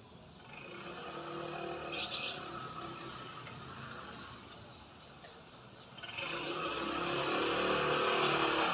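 Short, high chirping notes from a murai songbird, scattered in small groups through the first five seconds or so. From about six seconds in, a passing motor vehicle rises in level and becomes the loudest sound.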